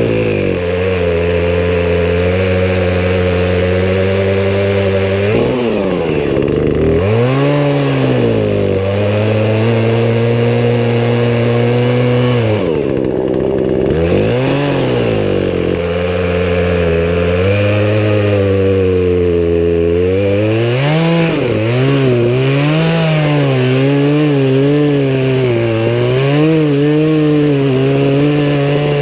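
Poulan Pro two-stroke chainsaw running steadily, its engine speed dropping and climbing back several times, then wavering up and down near the end.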